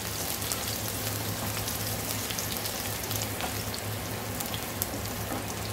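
Finely chopped ginger and garlic sizzling in a little hot oil in a steel kadai on high heat, stirred with a wooden spatula: a steady crackling hiss with scattered pops.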